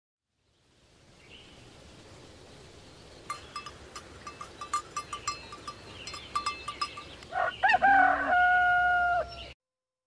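A rooster crowing once near the end, a wavering start running into a long held final note of about a second and a half, the loudest sound here. Before it, a run of short, sharp chirps and clicks over a faint background.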